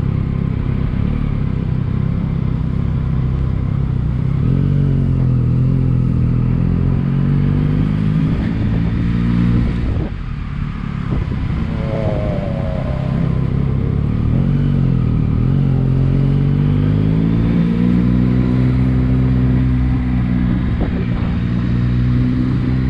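Motorcycle engine under way, its pitch rising and falling with the throttle. It drops off briefly about ten seconds in, then climbs again.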